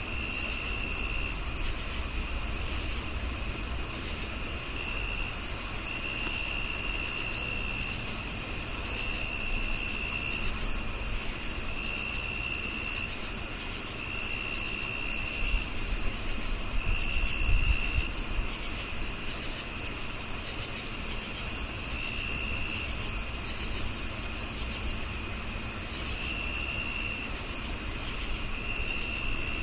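A chorus of crickets: one holds a steady high trill, another chirps in short regular pulses about two to three times a second, and a lower trill comes and goes in second-long stretches every couple of seconds. A brief low rumble sounds about halfway through.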